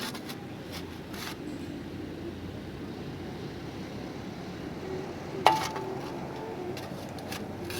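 A sharp clink with a brief ring about five and a half seconds in, with a few softer clicks before it, over steady background noise.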